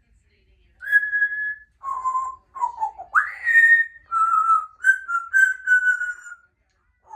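Congo African grey parrot whistling a run of clear notes at changing pitches, with a quick upward swoop about three seconds in and a string of short notes after it.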